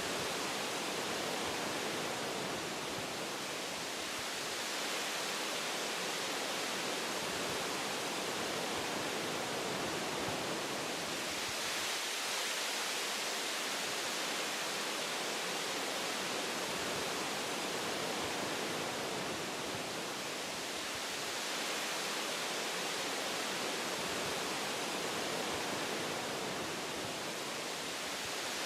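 Wind blowing through forest tree branches, a steady rushing hiss that swells and eases gently as it gusts.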